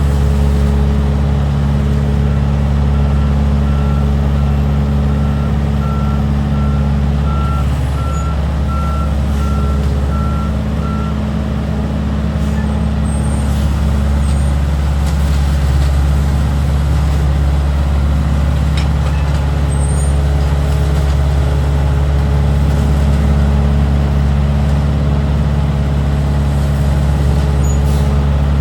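Leaf collection truck's engine running steadily with a deep hum. A reversing beeper sounds a steady series of beeps for several seconds, starting about three seconds in.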